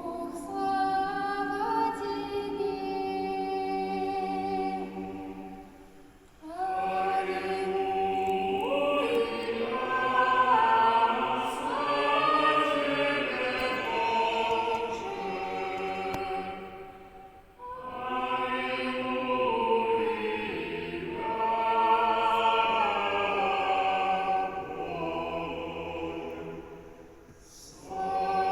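Choir singing a Russian Cossack spiritual verse in long sustained phrases, with short breaks between phrases about six seconds in, again at about seventeen seconds, and near the end.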